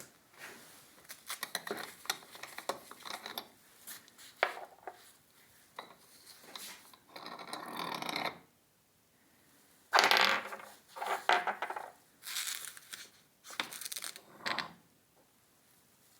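Irregular clicks, knocks and short scraping noises of hard objects being handled and shifted on a hard work surface, with louder scrapes and clatter in the second half.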